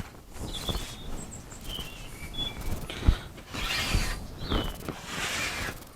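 Rustling and handling noises with one sharp knock about three seconds in, while small birds chirp several times in the background, one call falling in pitch.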